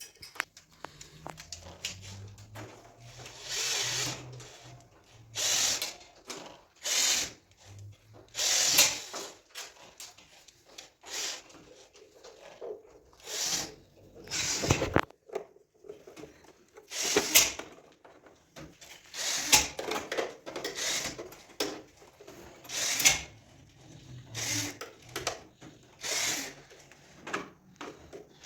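Power drill run in about fifteen short bursts at irregular spacing, each under a second.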